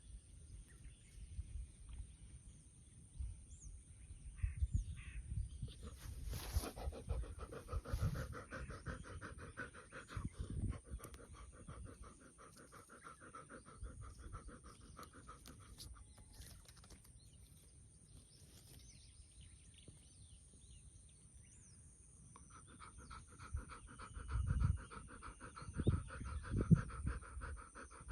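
Old Labrador retriever panting heavily, with birds chirping faintly behind and a few low thumps near the end.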